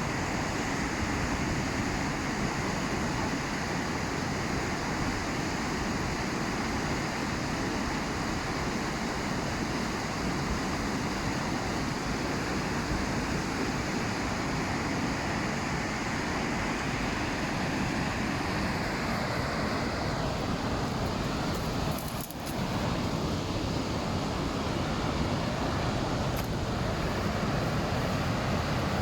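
Steady rushing of a flooded river's fast water and rapids at a weir, a dense even noise that dips briefly about three-quarters of the way through.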